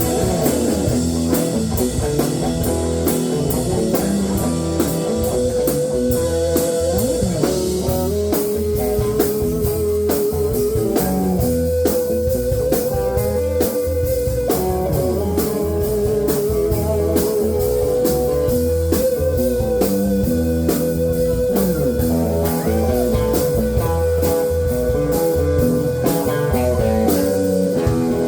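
Live blues-rock band playing an instrumental stretch. A lead guitar holds long notes with vibrato over a steady drum beat and bass.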